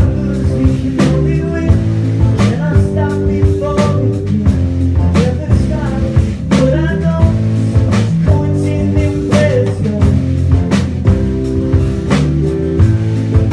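Live rock band playing: drum kit keeping a steady beat under guitar and bass, with a melodic line of bending notes over the top.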